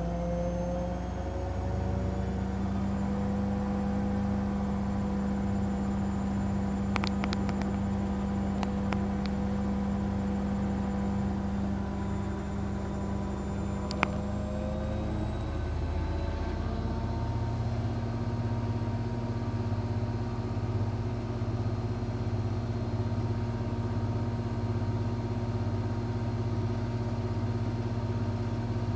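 Electrolux washing machine running with a steady motor hum and whine. About halfway through it shifts pitch and settles on a new steady note as the drum speed changes. A few light clicks come about a third of the way in, and a single sharp click comes near the middle.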